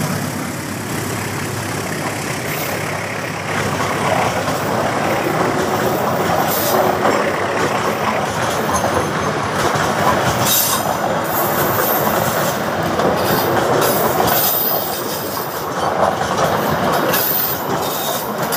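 Passenger coaches of the Argo Wilis express rolling past close by: a steady rush of wheel-on-rail noise with clattering over the rail joints. Short sharp high-pitched flares come in now and then from about ten seconds in.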